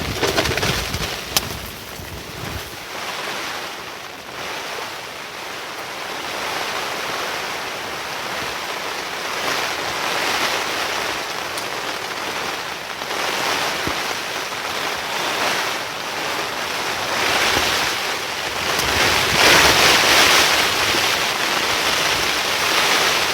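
Typhoon wind and rain: a steady rushing noise that swells and eases with the gusts, loudest near the end, with one sharp click early in the gusting.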